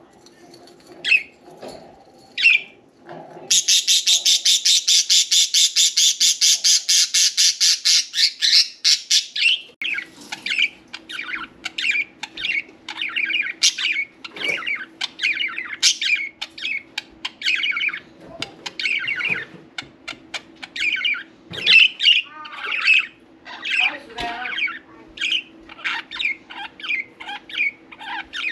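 Pet budgerigars calling: a fast, even run of harsh notes for about six seconds, then a stream of short chirps and chattering.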